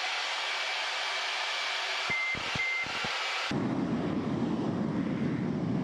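Jet aircraft cockpit noise: a steady hiss with a thin high tone and two short beeps about two seconds in, then an abrupt switch to a lower, deeper rumble about three and a half seconds in.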